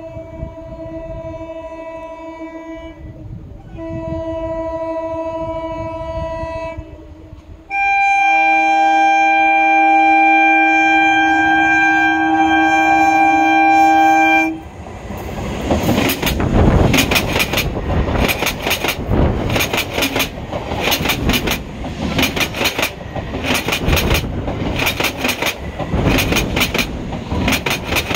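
Electric multiple unit (EMU) local train sounding its horn three times as it approaches: two blasts of about three seconds, then a louder one of about seven seconds. About halfway through, the train runs close by with a rhythmic clickety-clack of its wheels over the rail joints, the knocks often coming in pairs.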